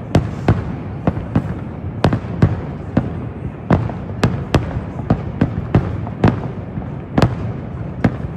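Aerial fireworks exploding in rapid succession, sharp bangs about two a second at uneven spacing, over a steady rushing background.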